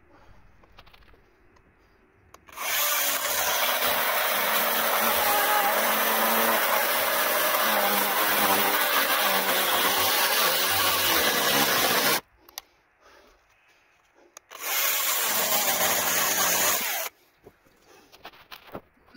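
Electric saw cutting through wood: one long cut of about ten seconds, a short pause, then a second cut of about two seconds.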